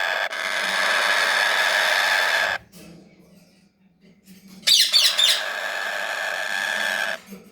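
Pet parrots squawking, a short harsh burst of calls about five seconds in, over a loud steady whirring hiss that cuts off suddenly twice.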